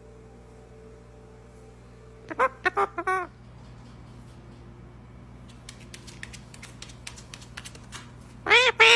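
A parrot gives a quick run of about four short squawks, then loud, harsh calls near the end. Between them there is a run of faint clicks.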